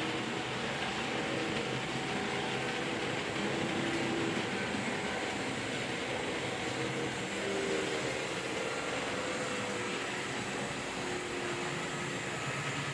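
H0-scale model trains running on a layout: a steady rumble of wheels on track, with faint humming tones from the small electric motors that come and go.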